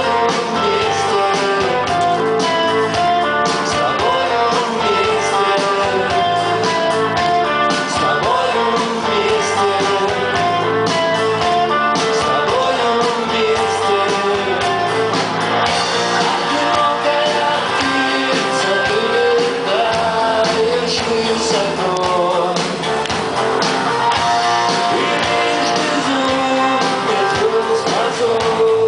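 Live rock band playing a song, with a male lead singer over guitars and a steady band backing, recorded from the audience at a concert.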